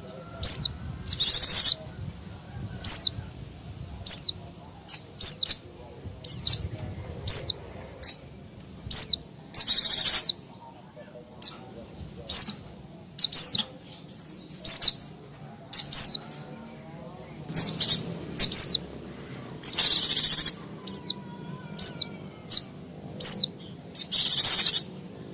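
White-eye (pleci) calling noisily: short, sharp, high chirps that slide downward, about one a second, broken by a few longer harsh chattering bursts. This is the excited 'ribut' calling used to lure wild white-eyes.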